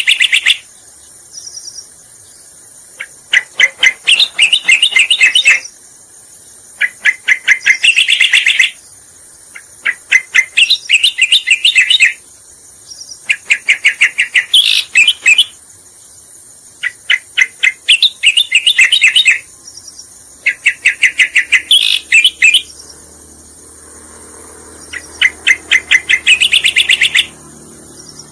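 Pied triller (cica koreng) song: phrases of rapid, sharp repeated notes, each about two seconds long, coming roughly every three to four seconds. A steady high insect buzz runs underneath.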